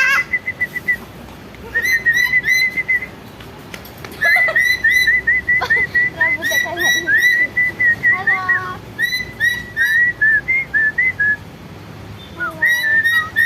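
A lory in full, persistent call, giving runs of rapid, repeated high whistled chirps in several bursts with short pauses between, and a few lower gliding notes mixed in.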